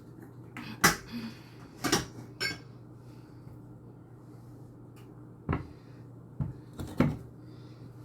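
Kitchen clatter while cleaning: about six sharp knocks and clanks of things being handled and set down, the loudest about a second in and near the end, over a steady low hum.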